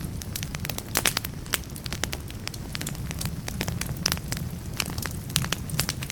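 Burning firewood crackling in a fireplace: a steady low rumble under irregular sharp pops and snaps, with a cluster of louder pops about a second in.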